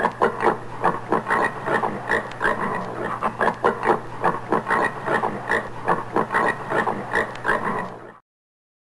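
Common warthog grunting in a rapid series, about three or four grunts a second, stopping abruptly just before the end.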